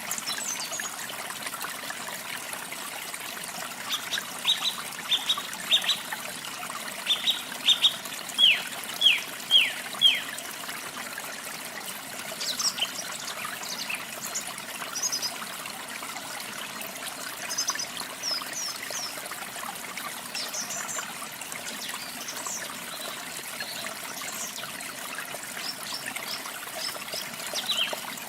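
Waterfall running steadily, with birdsong over it: a run of about a dozen loud, downward-sweeping whistled notes from about 4 to 10 seconds in, then scattered higher, shorter chirps.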